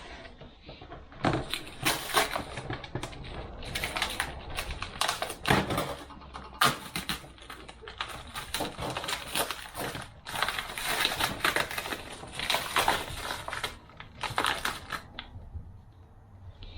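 Clutch friction discs and steel plates from a 42RE automatic transmission clattering and clinking as they are handled and stacked into a clutch pack. A dense, irregular run of clicks and rattles starts about a second in and stops shortly before the end.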